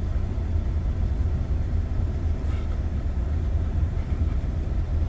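Steady low rumble of a car idling while parked, heard from inside the cabin.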